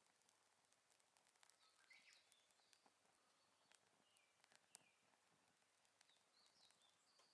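Faint wood campfire crackling, with scattered small pops and one louder pop near the middle. Small birds chirp intermittently.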